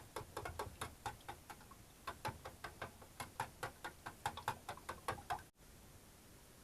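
Fork beating eggs for an omelette: quick, even clicks, about four or five a second, that cut off abruptly about five and a half seconds in.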